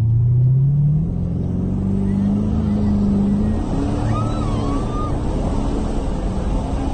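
Twin-turbocharged 426 stroker Hemi V8 in a Dodge Challenger accelerating, its pitch rising steadily for about three seconds and then holding. A faint whistle rises and falls about four seconds in.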